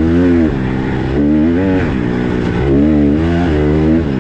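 Small single-cylinder four-stroke dirt bike engine being ridden, revving up and easing off about three times as the rider works the throttle.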